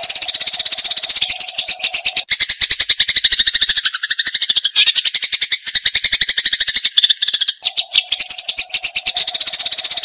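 Eurasian tree sparrows fighting, chattering in a fast, unbroken stream of sharp chirps, many per second. For a few seconds in the middle the chirps run a little lower in pitch, then return to the higher chatter.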